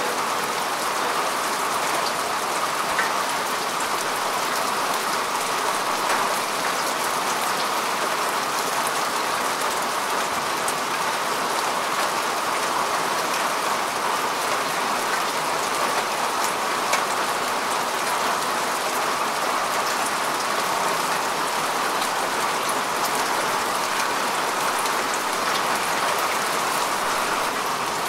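Steady rain falling on grass and soil, an even hiss with scattered single drops ticking through it.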